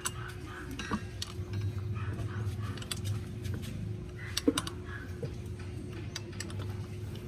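Scattered sharp metallic clicks and clinks of hand tools on metal parts of a starter motor, over a steady low hum.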